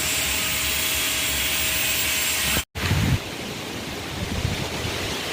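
Steady rushing noise with a faint high whine, which breaks off abruptly a little past halfway; after it, wind buffets the microphone with low rumbling gusts.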